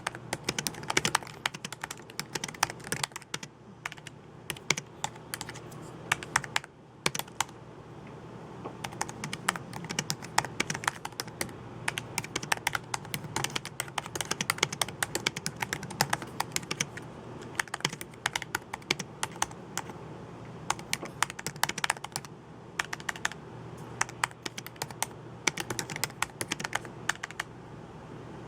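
Computer keyboard typing: rapid, continuous keystrokes in irregular runs with brief pauses.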